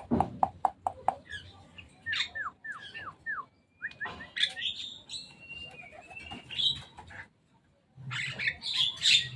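Javan mynas calling: a quick run of clicking notes, then a series of short downward whistles and varied whistled calls, and harsh chattering near the end after a brief pause.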